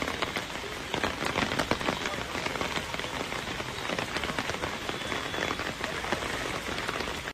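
Heavy rain pattering on a hard surface: a dense hiss made of many sharp drop hits, cutting off abruptly at the end.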